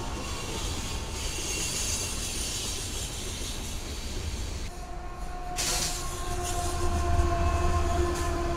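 Freight train passing close by, a steady rumble and clatter of wheels on rail. About five and a half seconds in the sound changes abruptly to another train's diesel locomotives going by with an air horn sounding a steady multi-note chord.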